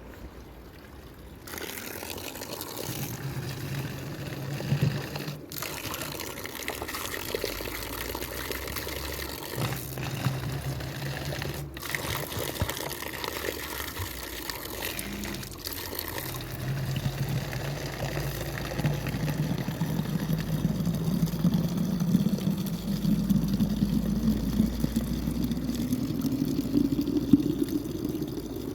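Running water pouring and trickling. In the second half a low tone climbs slowly in pitch.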